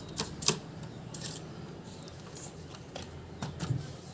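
A few light clicks and taps from handling the opened casing and parts of a rechargeable LED emergency light, over a faint low hum.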